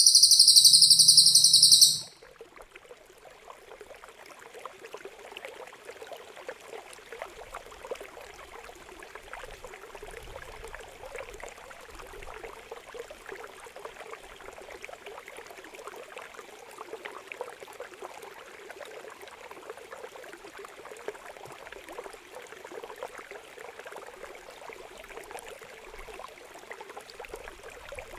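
A loud, harsh, high-pitched buzzing call, cut off abruptly about two seconds in, then steady trickling water with small splashes.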